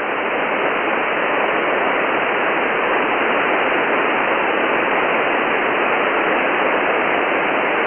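Steady hiss of static from a shortwave SDR receiver tuned to an open 10-metre single-sideband channel with no signal on it, cut off above about 3 kHz by the receiver's narrow audio passband.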